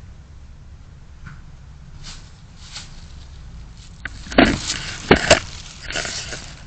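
Low steady rumble of a car interior, then a cluster of loud knocks and thuds starting about four seconds in.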